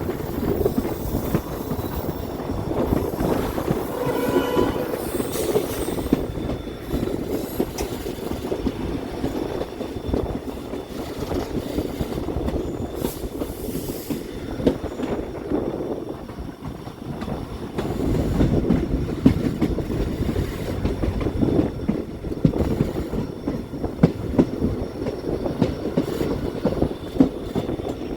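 Train running along the track: steady rumble of the wheels, with clicking over the rail joints. A brief pitched squeal or whine comes about four seconds in.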